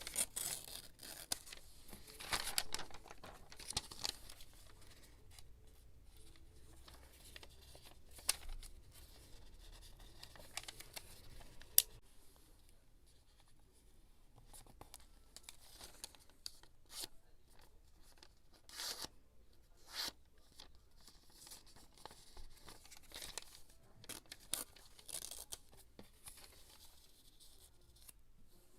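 Close-miked paper handling while scrapbooking: irregular rustling, tearing and small scissor and tapping sounds. It is busiest in the first few seconds, then sparser, with a sharp tap about twelve seconds in.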